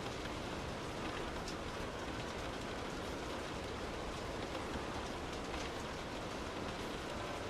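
Steady rainfall heard from indoors: an even rushing hiss of rain with faint scattered drop ticks.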